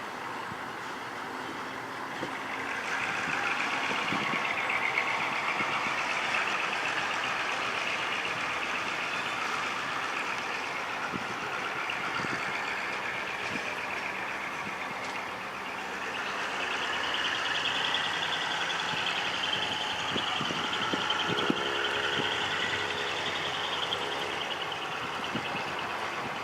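GM G22 diesel locomotive pulling out of a station, its engine and running gear making a steady, loud mechanical noise that swells about three seconds in, eases near the middle, and swells again past halfway.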